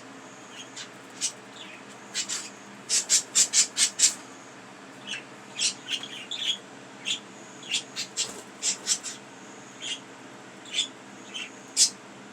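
Pet budgerigars giving short, sharp chirps and squawks, scattered and irregular, with a quick run of about six calls around three to four seconds in.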